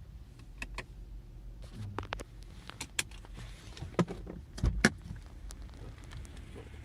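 Low, steady engine and exhaust drone from a 2016 Subaru Outback 3.6R's flat-six with WRX mufflers, heard inside the cabin. Scattered sharp clicks and knocks sound over it, the loudest about four and five seconds in.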